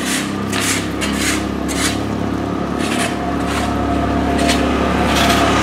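Road traffic: a car engine running steadily close by, growing a little louder toward the end, with repeated short scraping, rushing noises.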